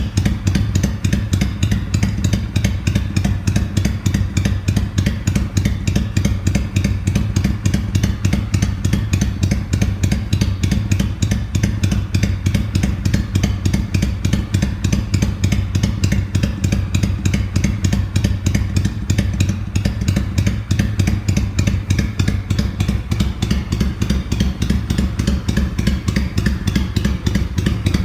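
Honda Shadow 400's V-twin engine idling steadily through its custom chopper exhaust, a fast, even train of exhaust pulses.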